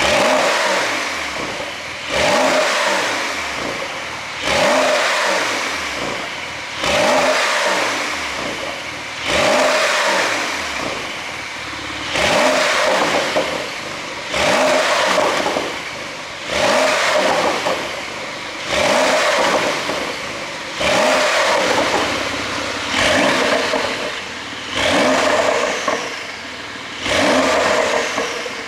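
Porsche 911 Carrera 4S's twin-turbo flat-six blipped through its exhaust over and over, about one rev every two seconds, each a quick rise in revs then a falling pitch as it drops back toward idle.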